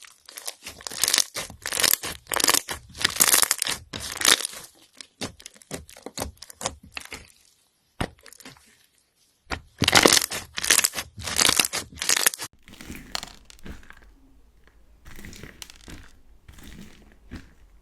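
Slime being squeezed, stretched and pressed by hand, giving bursts of crackling and crunching. A short silent break comes about eight seconds in, then a run of louder crunches, and the sound turns softer and finer near the end.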